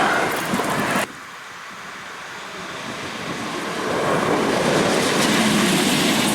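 London tram running on its rails, its rumble building steadily over a few seconds. A louder noise cuts off abruptly about a second in.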